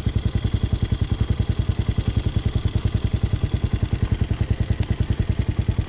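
Motorcycle engine running at low revs during slow-speed riding, with an even, rapid pulsing of about ten beats a second.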